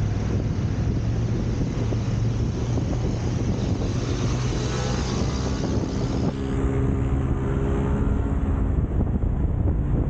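Steady low rumble of a car driving, road and engine noise, with a faint pitched engine hum rising up in the middle.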